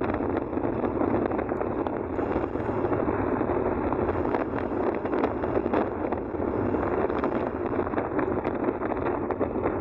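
Steady rushing of floodwater, with wind buffeting the microphone.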